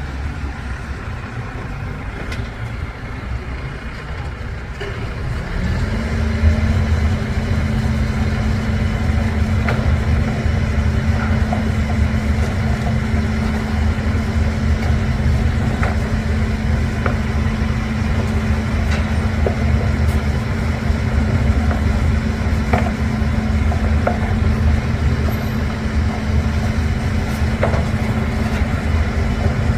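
Faun Rotopress rotating-drum garbage truck running with a steady engine rumble. About six seconds in it grows louder and settles into a steady humming drone, with scattered light clicks and knocks over it.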